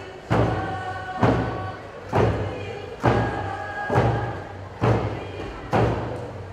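Steady hand-drum beat, a little faster than one stroke a second, under a group singing a Tlingit song in chorus.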